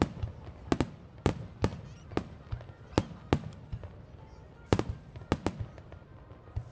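Aerial firework shells bursting in quick, irregular succession: about a dozen sharp bangs, each followed by a rolling echo.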